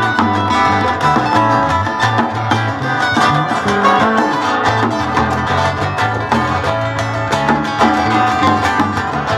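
A live band playing an instrumental break with no singing: busy plucked-string picking over a steady bass line.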